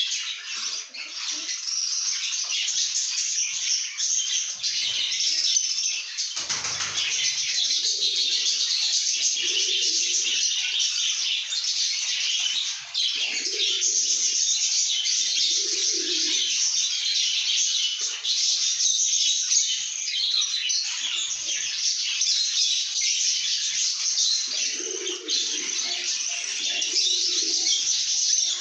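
A group of lovebirds chattering and chirping continuously in shrill, rapid calls. There is a single thump about six and a half seconds in.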